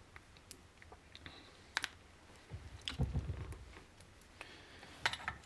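Faint scattered clicks and light handling noises of small parts being fitted by hand, with a brief low thump about three seconds in.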